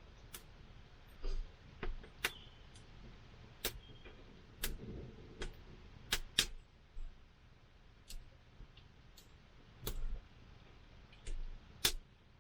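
Campfire wood burning and crackling: irregular sharp pops and snaps, more than a dozen, over a faint hiss, with a few softer low thuds.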